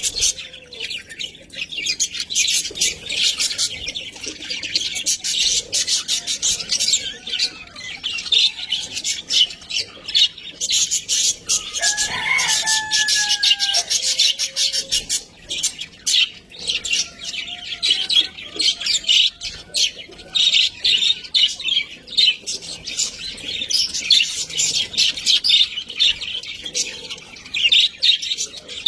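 A flock of budgerigars chattering and warbling without a break, a dense mix of quick chirps and clicks. About twelve seconds in, a lower, longer call rises and then falls away.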